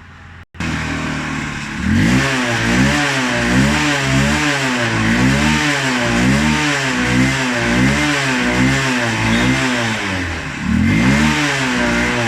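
Single-cylinder engine of a BS4 Honda Unicorn motorcycle idling, then revved in quick repeated throttle blips, the pitch rising and falling each time. It picks up cleanly on the throttle: the carburetor fault that stopped it revving is cured after cleaning.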